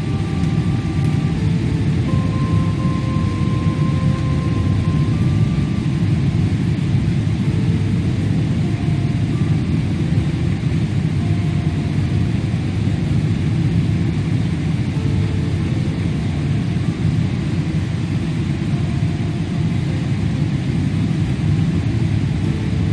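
Steady low rumble of a jet airliner heard inside the passenger cabin, even and unbroken throughout.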